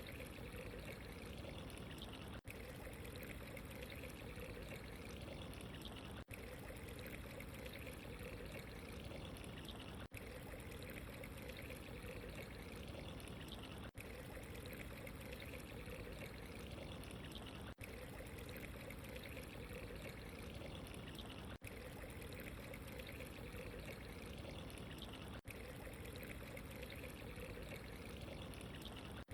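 Steady ambient trickling, pouring water, with a tiny gap about every four seconds where the sound briefly cuts out.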